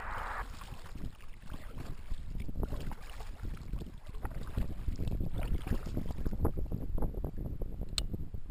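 Wind buffeting the microphone in a low rumble, with water splashing and lapping against a kayak. Near the end there is a single sharp click.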